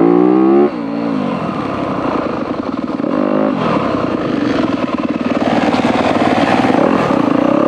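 Dirt bike engine riding along under throttle. The revs climb and then drop sharply less than a second in, as at a gear change, rise again about three seconds in, then run on fairly steadily.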